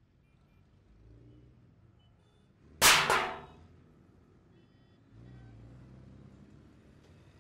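A sudden loud bang about three seconds in: two sharp impacts about a quarter second apart, fading out within half a second.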